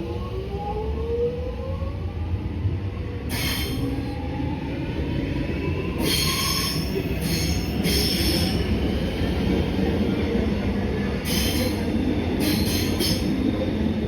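X'trapolis electric multiple-unit train pulling away, its traction motor whine rising in pitch over the first few seconds, over a steady rumble of wheels on rail. Short bursts of high-pitched wheel squeal come and go several times through the rest.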